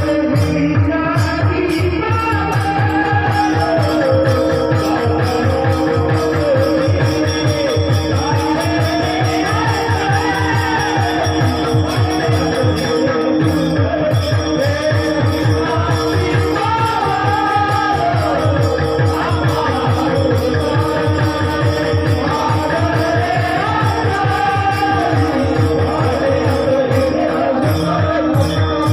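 Warkari bhajan: a voice sings a slow, gliding melody over a steady drone, with a fast, continuous beat of hand-drum strokes and jingling percussion.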